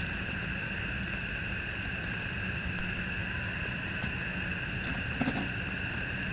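A steady outdoor animal chorus: two unbroken high tones held over a low haze, with a faint knock about five seconds in.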